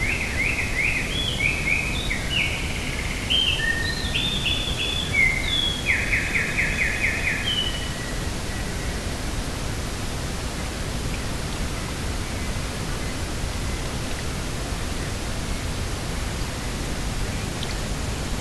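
Steady rushing of coastal wind and sea. A small bird chirps and trills with high, quick notes for the first eight seconds or so, then stops.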